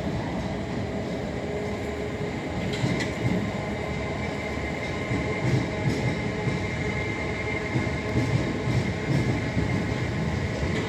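Electric multiple-unit train moving along a platform, with a steady rumble and scattered sharp clicks of wheels over rail joints. A high steady whine comes in about two and a half seconds in.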